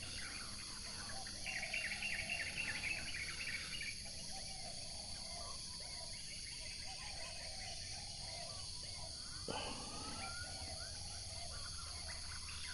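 Outdoor chorus of birds chattering and calling over a steady high buzz of insects. The chattering is busiest in the first few seconds. About nine and a half seconds in there is a short sharp sound, followed by a rising call.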